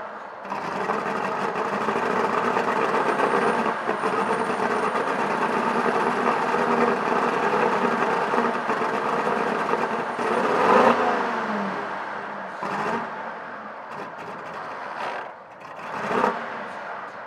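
Vintage straight-eight car engine running under way, its pitch sliding down about eleven seconds in, then running quieter with short swells.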